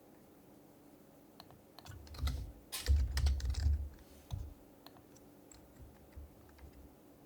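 Typing on an HHKB Professional HYBRID Type-S keyboard with quiet Topre keys: after a brief pause, a quick burst of keystrokes with dull thuds, then a few scattered single key presses.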